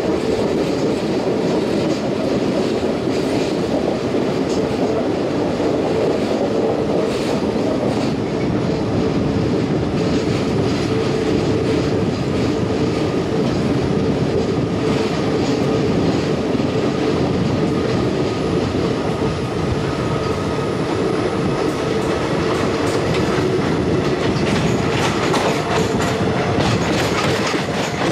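Passenger express coaches running along the track: a steady rumble of steel wheels on rail, with clickety-clack over the rail joints that comes thicker near the end, and a faint steady whine underneath.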